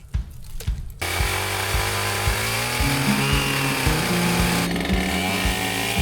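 Husqvarna 572 two-stroke chainsaw cutting wood, starting abruptly about a second in, run at part throttle during its break-in so the piston rings can seat. Background music with a steady beat plays under it.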